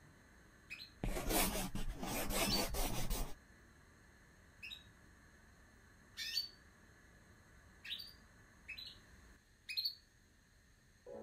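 Short rising bird chirps, about half a dozen, a second or so apart. About a second in comes the loudest sound, roughly two seconds of loud scratchy rubbing noise.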